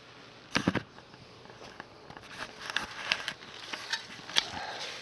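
Digging into garden soil to lift potatoes: a cluster of thumps about half a second in as the tool goes in, then scattered light crackles and rustles of soil being turned.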